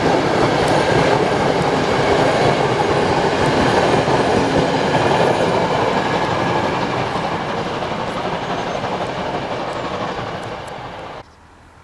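Train running past on the rails, loud at first, then fading as it moves away, and cutting off suddenly near the end.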